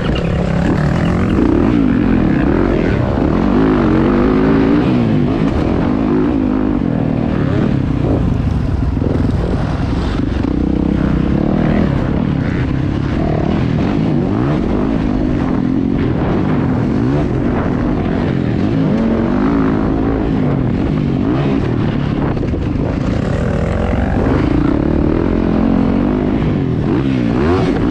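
Several motocross dirt-bike engines revving together, their pitches rising and falling and overlapping as the bikes race.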